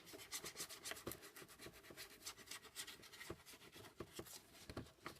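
Faint, quick, irregular scratchy strokes on the cardboard shoebox as contact cement is worked on and a loose piece is pressed back into place.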